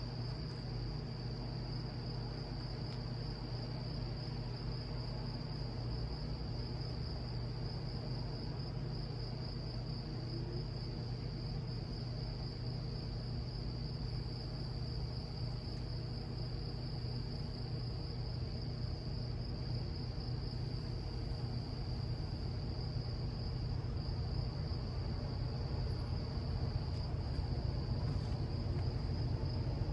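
Steady, continuous chorus of insects in one high band, over a low steady rumble that grows a little louder near the end.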